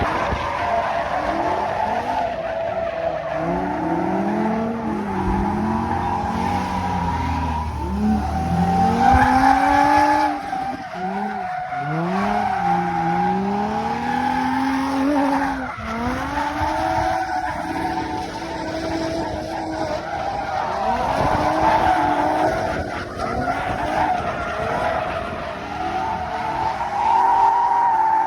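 Drift car sliding with its tyres squealing in a steady high screech, while the engine revs rise and fall again and again under the squeal.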